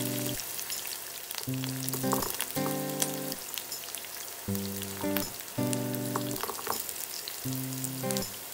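Sliced onion and carrot sizzling in hot sunflower oil in a frying pan, with a steady crackle of small pops and spits. Background music with chords that repeat every few seconds plays over it.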